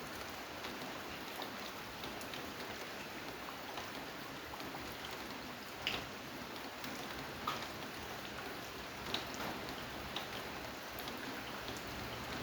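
Steady rain falling, with a few louder single drops ticking out close by every second or two.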